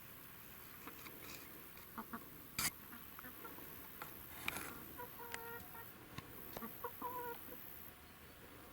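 Scattered clicks and small knocks, the sharpest a little under three seconds in, then a few short pitched bird calls in the second half.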